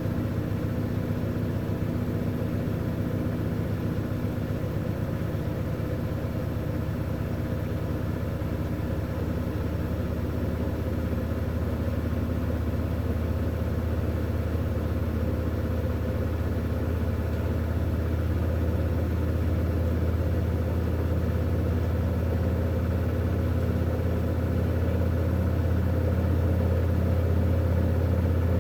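V-Zug Unimatic SL washing machine running with a steady low motor hum that grows slightly louder through the second half.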